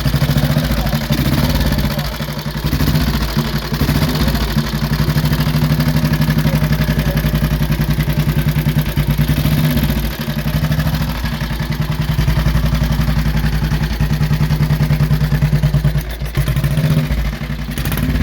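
Engine of a 1939 Benelli 500 Sport motorcycle with low pipes running steadily with an even, quick exhaust beat. It eases off briefly a few times.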